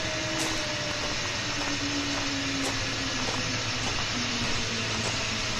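Zip line trolley running along the steel cable: a steady rush with a whirring whine that slowly falls in pitch as the rider slows.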